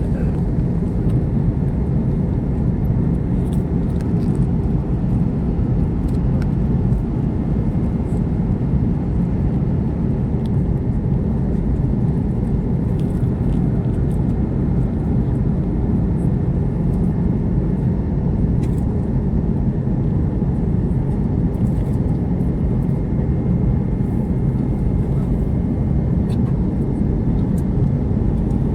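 Steady low rumble of engine and airflow inside a passenger airliner cabin, even and unchanging, with a faint high steady whine above it.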